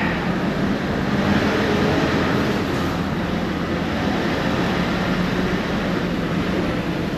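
A large engine droning steadily under a rushing noise, growing a little louder about a second in.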